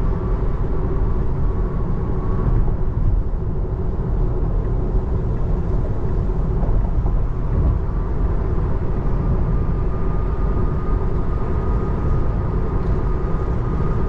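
Steady road and tyre noise inside the cabin of an electric Tesla Model 3 driving on a wet highway, a continuous low rumble with a faint steady hum over it.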